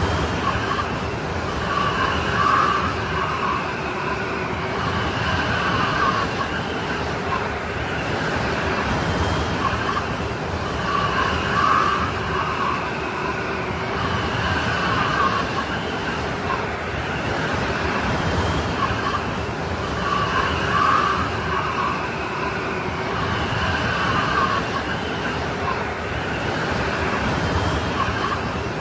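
Strong snowstorm wind blowing steadily, with a howling, moaning tone that swells and fades every few seconds.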